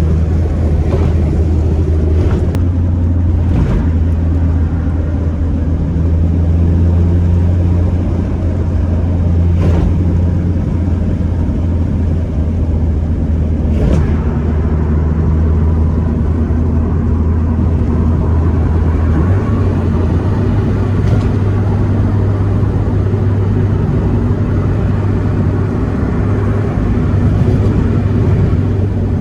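Car engine running steadily with a deep, even drone. Its note steps slightly higher about two-thirds of the way through, and a few faint clicks come over it.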